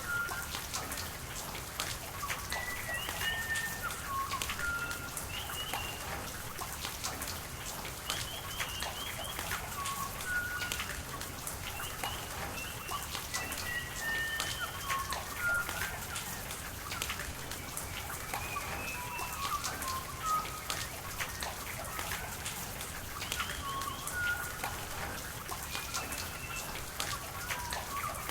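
Rain falling with scattered drop ticks over a steady hiss, while birds call throughout in short whistled notes.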